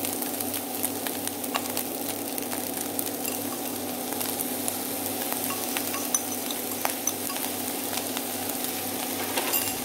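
Fried rice sizzling in a hot pan as a liquid seasoning of fish sauce, sugar and pepper is poured over it, with small crackles and a steady low hum underneath.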